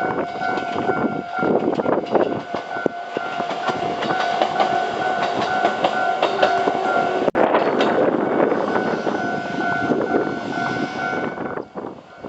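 A train running through a level crossing, its wheels clattering over the rail joints, with the crossing's warning bell repeating a steady ringing tone over it. The train noise falls away near the end.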